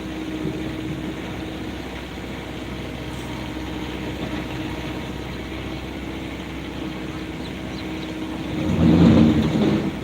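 Diesel engine of heavy earthmoving machinery running steadily on a soil excavation site, with a louder, rougher surge about nine seconds in, lasting a second or so.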